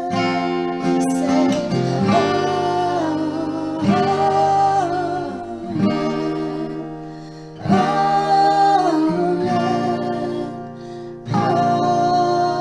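A voice singing long held notes over strummed acoustic guitar chords, in phrases of about four seconds.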